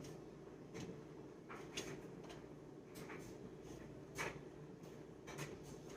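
Faint, scattered light clicks and knocks of things being handled in a kitchen, about five over several seconds, the sharpest about four seconds in.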